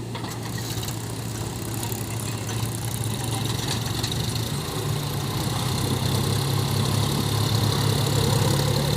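Heavy machine's diesel engine running steadily at a low, even pitch, slowly growing louder.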